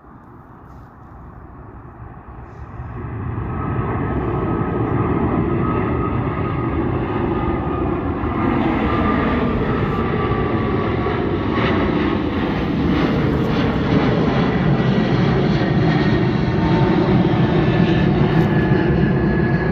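Jet airliner engines at takeoff thrust: the noise swells sharply about three seconds in, then stays loud as a deep rumble with thin whining fan tones above it.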